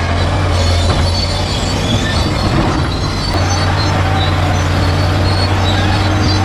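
Bulldozer's diesel engine running steadily, with high metallic squeals from its steel crawler tracks.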